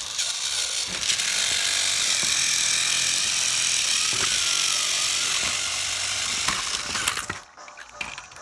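A small mechanism whirring with a fast rattling, clicking texture, starting about a second in and cutting off suddenly after about seven seconds.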